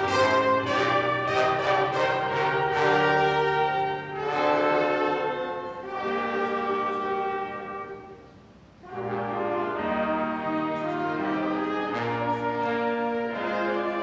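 A small amateur church orchestra playing a Christmas piece, with brass to the fore in sustained chords. There is a brief break in the playing about two-thirds of the way through, then it picks up again.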